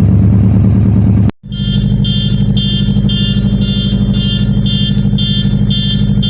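Subaru Impreza WRX flat-four engine rumbling. After a sudden cut, the engine idles while a nearby Hyundai i10's car alarm beeps about twice a second, set off by the cold start.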